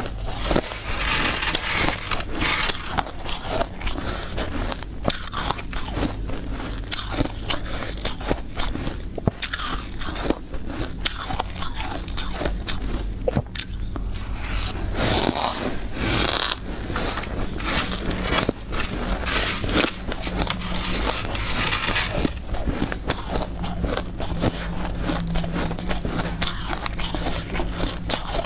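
A person biting and chewing freezer frost, the soft ice that builds up inside a freezer, with dense crisp crunches throughout. A low steady hum runs underneath.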